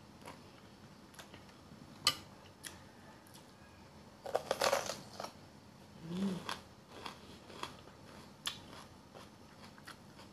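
Close-miked eating sounds: soft chewing and wet mouth clicks, with a louder noisy stretch lasting about a second around four seconds in and a brief low hum around six seconds.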